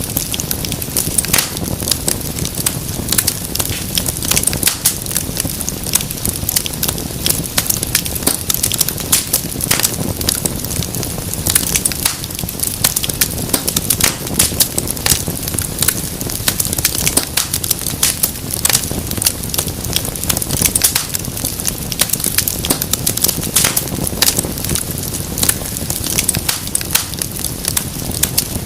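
Wood fire burning in a fireplace, with dense, irregular crackles and pops over a steady low rumble of flame.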